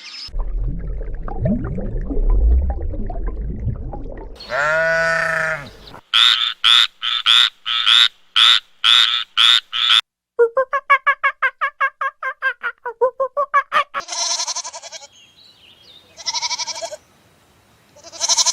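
A run of different animal calls. A low rumbling noise comes first, then a single drawn-out call about five seconds in. After that comes a fast series of about a dozen sharp repeated calls, then a rapid pulsing call, and several short calls near the end.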